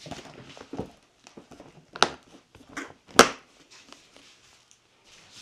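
Handling noises as the cover on a scratch-built RC aircraft carrier model is closed up: light rustling and a few sharp clicks and knocks, the loudest about three seconds in.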